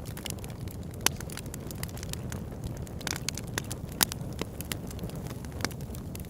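Campfire crackling: irregular sharp pops and snaps of burning wood over a steady low rush, with the loudest pops about a second in and about four seconds in.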